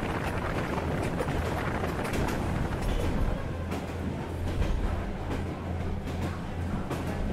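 Passenger train running along the line, heard from an open window beside the carriages: a steady low hum and rushing noise, with scattered sharp clicks from the wheels on the rails.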